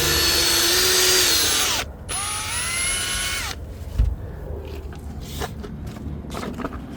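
Power drill spinning a scrub brush on upholstery, run in two bursts of about two seconds and a second and a half; the motor whine climbs as it spins up and drops as each burst stops. A single knock follows a little later.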